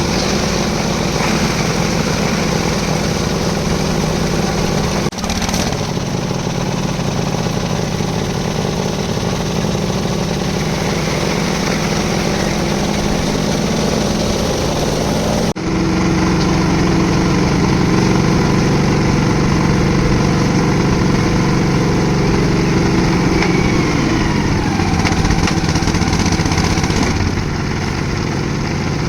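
Concrete mixer's engine running steadily, with two brief sudden dips about five seconds in and about halfway through.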